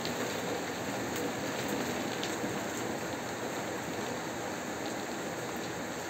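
Steady rain falling on a window pane, a continuous hiss of rain with a few sharper single-drop ticks now and then.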